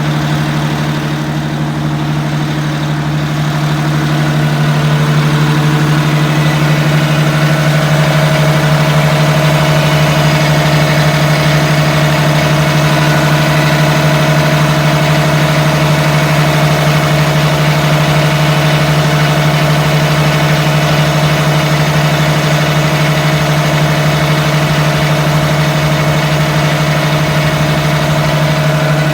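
A New Jersey Transit bus engine running steadily at a constant speed, with no revving. It gets a little louder about five seconds in.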